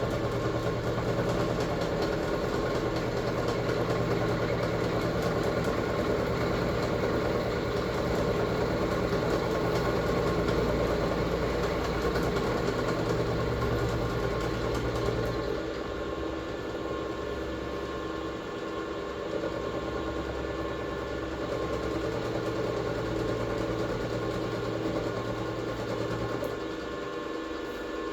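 Metal lathe running steadily. About halfway through the running sound drops a little and changes, and a low hum cuts off near the end.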